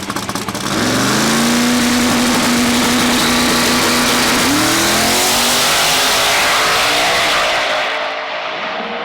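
Twin-turbocharged Fox-body Mustang drag car, with a 481X Proline engine, launching and running at full throttle down the strip. The engine note jumps up about a second in, holds steady, climbs again about four and a half seconds in, and fades near the end.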